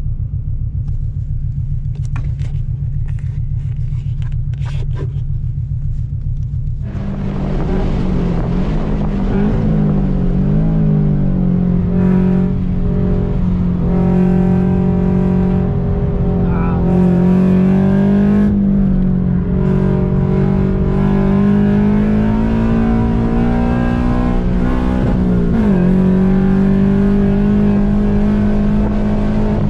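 A Subaru BRZ / Scion FR-S / Toyota 86 engine heard from inside the cabin. For the first several seconds there is a low, steady rumble. From about seven seconds in, the engine runs hard at high revs on track, its pitch dipping and climbing again with lifts and gear changes.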